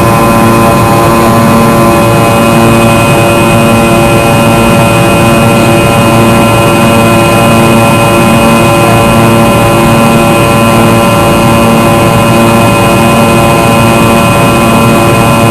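Fokker 100's rear-mounted Rolls-Royce Tay turbofan engines running steadily in flight, heard inside the passenger cabin. It is a loud, even jet drone with several steady whining tones and a slow pulsing in the low hum about once a second.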